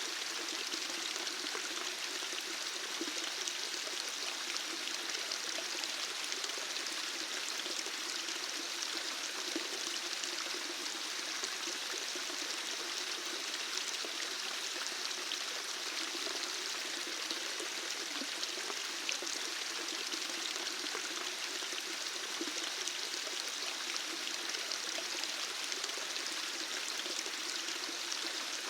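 Running water flowing steadily, an even, unbroken rushing splash.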